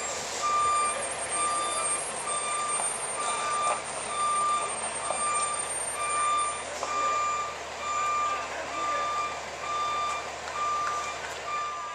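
Fire truck's reversing alarm beeping steadily about once a second as the truck backs up, over the hum of the truck and the surroundings.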